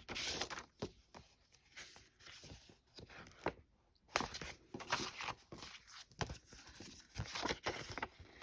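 Paper greeting cards being handled and leafed through: irregular rustling and crinkling with light taps as the cards are shuffled and set down.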